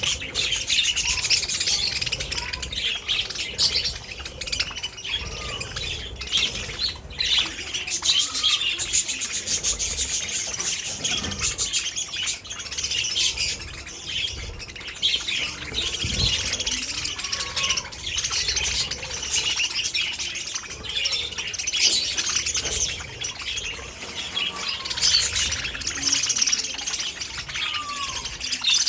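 Budgerigars chirping and chattering without pause, many calls overlapping.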